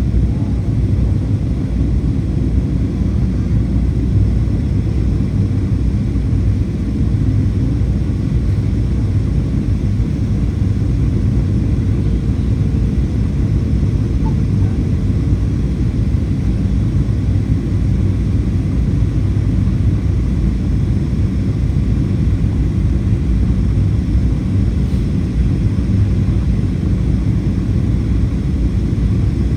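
Steady in-flight cabin noise inside a Boeing 737-800: the CFM56-7B turbofans and rushing airflow make an even, low rumble.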